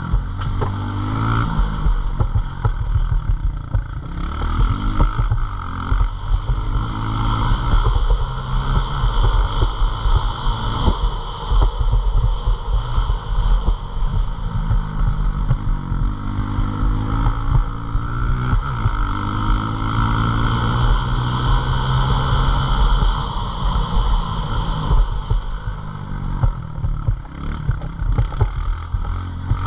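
Pit bike engine running hard, its pitch climbing and dropping over and over as the bike accelerates and backs off.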